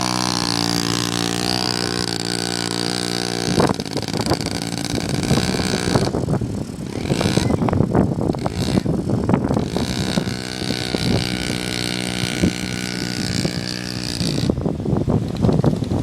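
Small dirt bike engine running at a steady pitch under throttle. It is broken up, from about three and a half seconds in until about ten seconds and again near the end, by stretches of rough, crackly noise.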